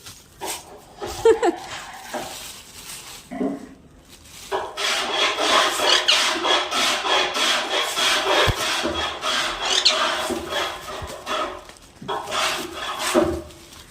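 Pet parrot playing with a plastic bag: scratchy rustling and crinkling of the plastic, dense and continuous through the middle stretch, with shorter rustles before and after.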